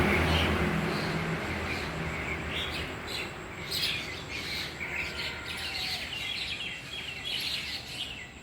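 Birds chirping, many short, quick, high calls that begin about two seconds in, over a low rumble of passing traffic that fades away at the start.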